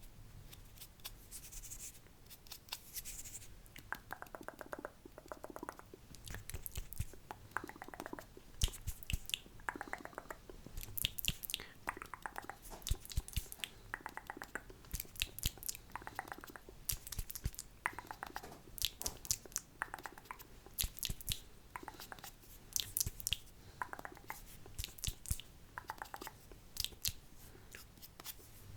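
Close-miked wet mouth sounds: tongue clicks and lip smacks in short clusters, repeating about once a second.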